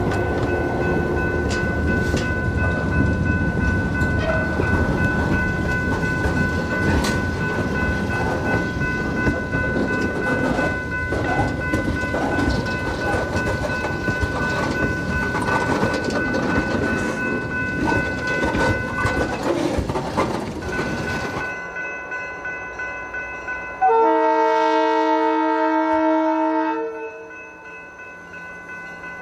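Freight train rolling past with a dense rumble and clatter of wheels on the rails. After a sudden change, a diesel locomotive's multi-tone air horn sounds one blast of about three seconds, fading toward its end.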